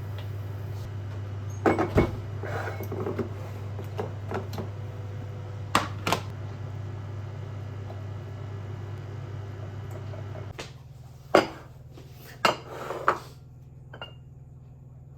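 Dishes and cutlery clinking: a scatter of sharp clinks and knocks of tableware, over a steady low hum that drops away about ten seconds in.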